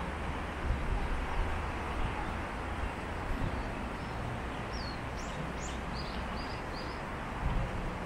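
A small bird chirping about six times in quick succession, short high notes a little past halfway, over a steady rushing background noise with a low rumble.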